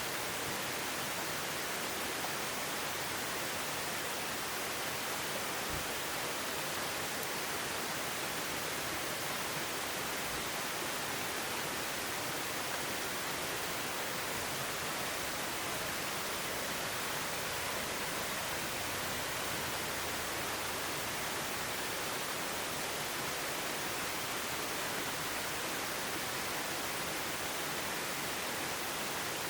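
Clear forest stream flowing, a steady, even rush of water with no breaks.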